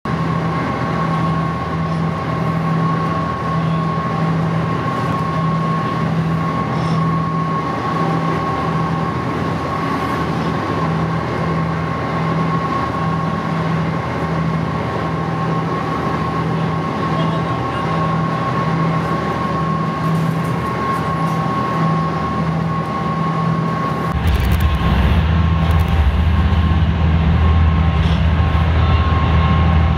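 Passenger ferry's engine droning steadily inside the cabin, with a pulsing low hum and a steady higher whine. About 24 seconds in, the low rumble gets suddenly louder and heavier.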